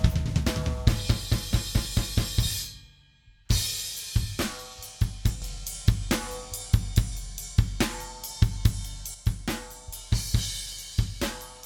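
Recorded drum kit playing back, with kick, snare, hi-hat and cymbal hits in a steady groove. It dies away about three seconds in and starts again half a second later.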